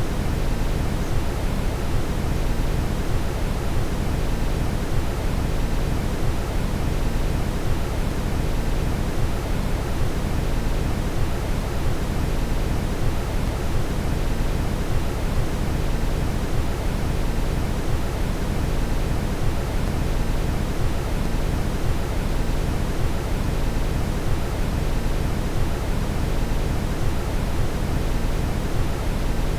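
Steady brown noise: an even, deep rushing hiss, strongest in the bass and fading toward the treble, with no change throughout.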